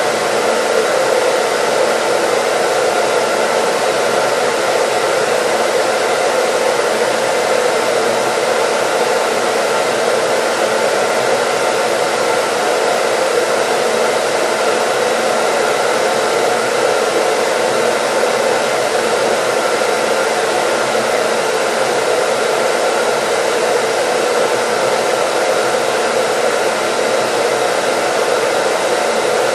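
Hair dryer running continuously at a steady speed, an even airy whoosh with a faint motor hum, played as white noise.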